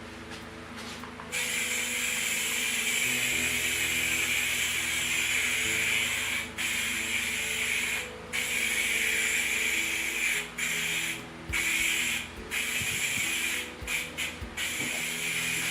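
Aerosol can of satin spray polyurethane hissing in long sprays, starting about a second in and broken by several brief pauses near the end as the trigger is let off and pressed again.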